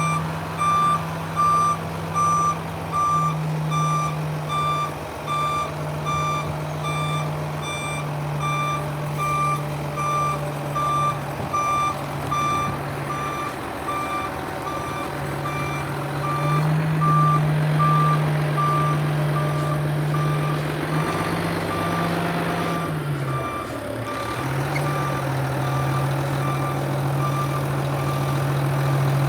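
Garbage truck backing up, its reverse alarm beeping steadily over the low running of its engine. The engine note dips and picks up again about three-quarters of the way through.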